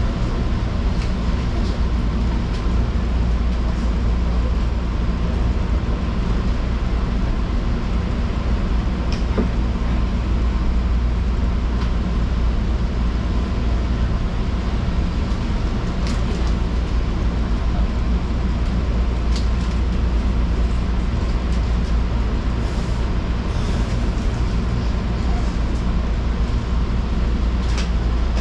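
Electric commuter train running on the Fujikyuko Line, heard from inside the car: a steady rumble of wheels and traction motors with a low hum, and a few faint clicks now and then.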